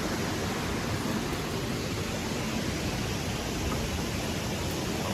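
Steady rushing water noise, even and unbroken, as of a waterfall or fast stream.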